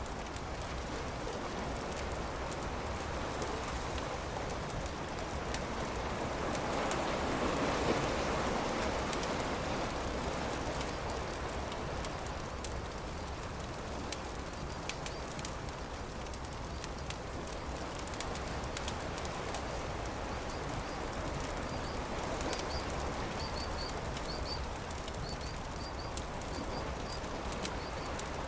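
Campfire crackling with many small sharp pops, over a steady wash of surf that swells up and falls back about eight seconds in. A bird chirps a few times near the end.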